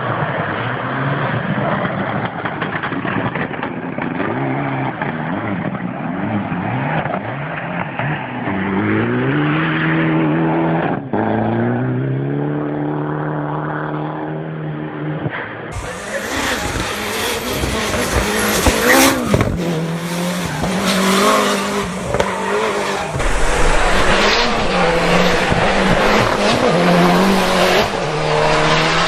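Race car engines under hard throttle. First a rally car's engine revs up with its pitch climbing repeatedly through gear changes. About halfway in there is a sudden cut to another race car's engine running hard.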